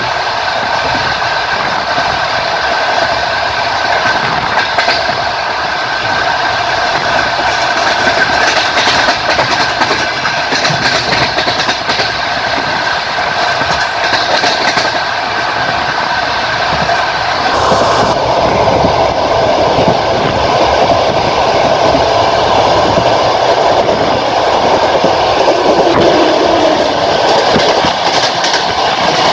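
Passenger train carriage running at speed, its wheels clattering over the rail joints with a continuous rumble and a steady whine. About two-thirds of the way through, the running sound changes, dropping lower in pitch.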